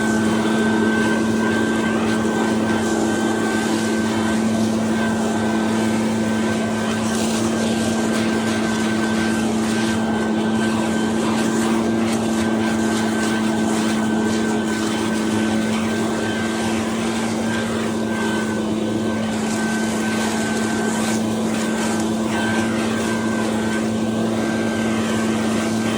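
Two-stroke backpack leaf blower running steadily at a constant pitch, blowing leaves out of roof gutters.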